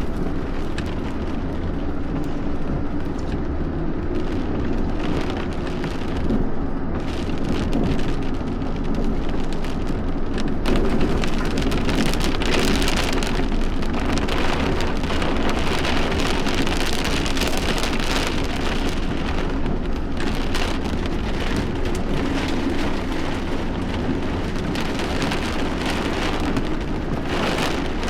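Heavy thunderstorm rain falling steadily, a dense patter of drops over a constant low rumble.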